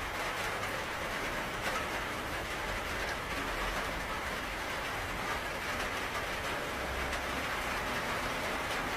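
Steady rain: an even hiss with faint scattered drop ticks and a low rumble beneath.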